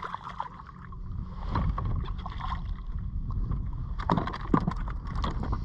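Wind buffeting an action camera's unshielded microphone on a kayak, a steady low rumble, with a cluster of sharp knocks and clicks about four to five seconds in.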